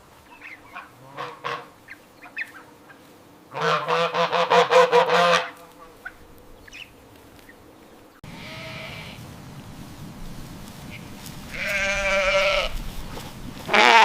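Farm animal calls. About four seconds in comes a loud, rapidly pulsed honking call lasting under two seconds. After a change of scene, a long wavering call follows near twelve seconds, then a short loud call at the end.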